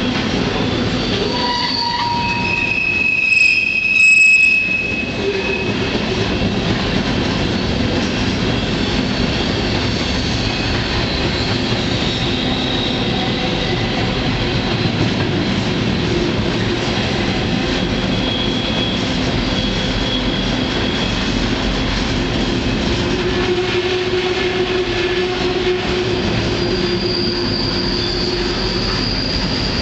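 Freight train rolling along the track, heard from aboard an open freight car: a steady rumble and rattle of wheels on rail, with thin high-pitched wheel squeals coming and going. The loudest squeal comes about three to four seconds in, and another thin squeal comes near the end.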